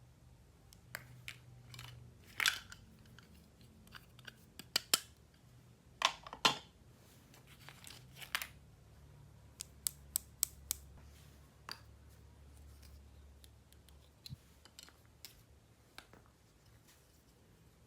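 Plastic toy packaging and pieces handled: irregular clicks, taps and short crinkly rustles, the loudest clusters in the first half.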